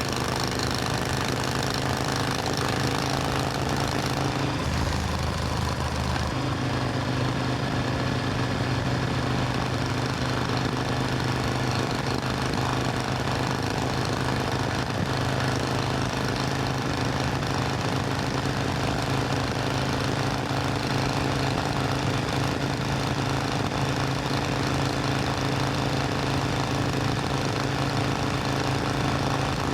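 Supercharged Triumph Thunderbird Storm parallel-twin motorcycle engine running steadily, with a brief change in its note about five seconds in.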